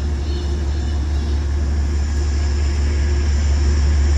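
Passenger train running through the station: a steady low rumble that grows slowly louder.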